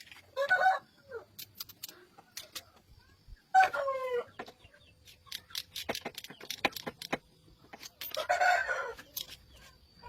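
Chicken calls, three short ones, the middle one loudest with a falling pitch, among scattered light clicks and taps.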